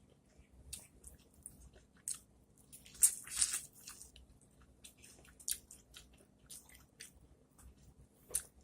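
Close-up mouth sounds of biting and chewing corn on the cob: a string of short wet clicks and smacks, loudest about three seconds in.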